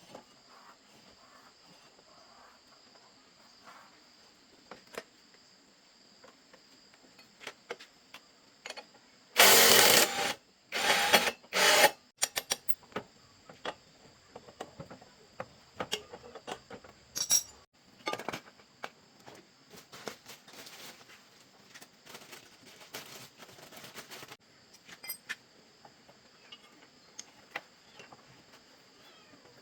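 Workshop handling sounds: scattered light clicks and taps of tools and small parts, with three short loud bursts of noise about ten seconds in. A steady high insect chirring runs behind, dropping out for a stretch in the middle.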